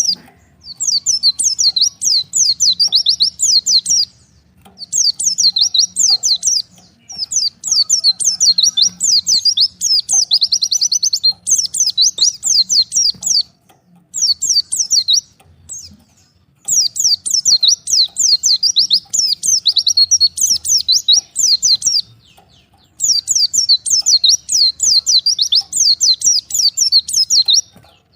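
White-eye (pleci) singing: bouts of rapid, high twittering, each lasting one to five seconds, with short pauses between them.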